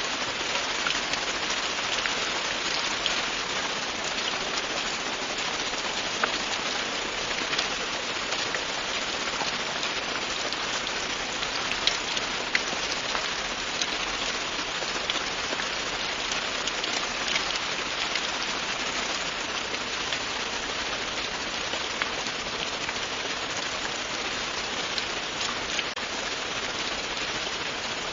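Steady rain falling, an even hiss with many small drop ticks and no let-up.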